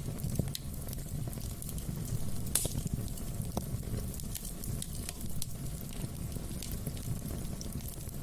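Wood fire burning in a fireplace: a steady low rumble of flames with scattered crackles and small pops, one louder pop about two and a half seconds in.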